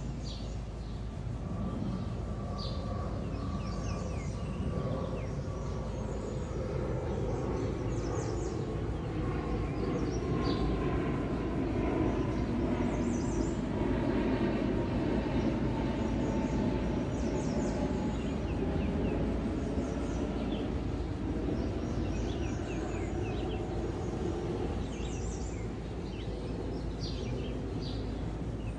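Small birds chirping repeatedly over a low rumble from a distant passing vehicle, which swells for about twenty seconds with a slowly falling tone and then fades.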